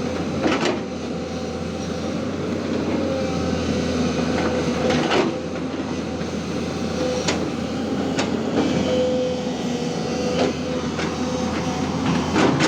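Diesel engine of a Tata Hitachi 210 Super Plus excavator running steadily, with a tone that wavers up and down and sharp knocks every few seconds.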